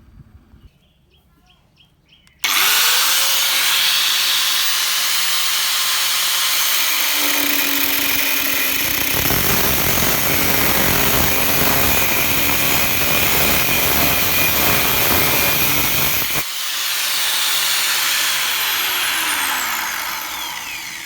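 Restored angle grinder switched on about two seconds in, spinning up quickly and running steadily and loudly. About sixteen seconds in it is switched off and winds down, its whine falling in pitch as it coasts to a stop.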